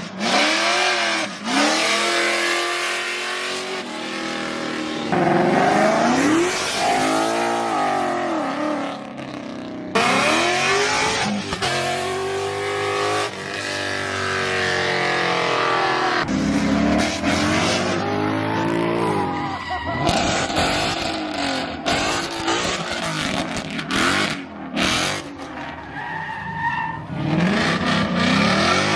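Car engines revving hard, the pitch climbing and dropping as they accelerate, over loud tire squeal and skidding from burnouts. The sound changes abruptly every few seconds as one car gives way to the next.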